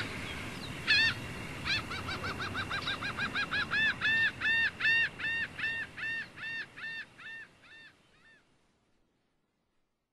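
A bird calling a long series of short rising-and-falling notes, quick at first and then more spaced, fading out near the end.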